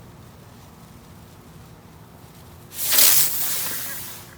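Rocket-powered helicopter firework taking off with a sudden loud hiss of its burning propellant about three seconds in, fading away over about a second and a half.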